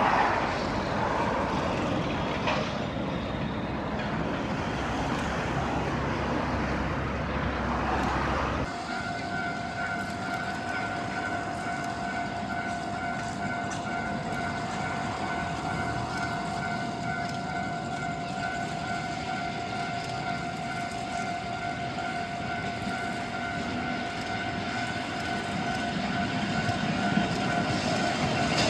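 Road traffic running past for the first nine seconds. After a cut, a steady high tone with a higher overtone holds for about twenty seconds over a quieter background. Near the end a Kotoden retro electric train draws nearer and the sound grows louder.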